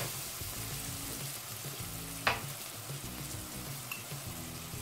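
Sliced garlic, curry leaves and chopped onion frying in oil in a wok, a steady soft sizzle. A single sharp tap about two seconds in.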